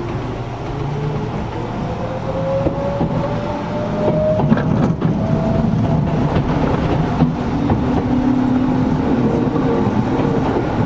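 Gakunan Railway 7000-series electric railcar pulling away from a stop, heard from inside the car. The motor whine climbs steadily in pitch through the first half as the train accelerates, over a low running rumble with occasional clicks from the wheels on rail joints.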